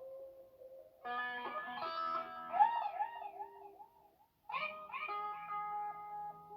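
Eerie music-like tones: stacks of held, pitched notes that start abruptly about a second in and again near four and a half seconds, with a warbling tone in between that dips about four times a second.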